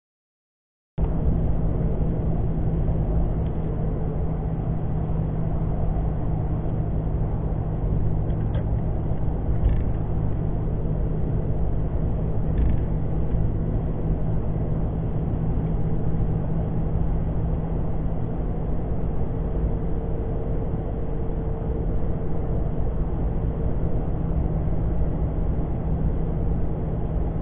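Steady engine and tyre rumble of a 2017 Toyota Tacoma on 33-inch Duratrac tyres cruising at highway speed on a snowy road, heard inside the cab with a steady low hum. It starts after about a second of silence.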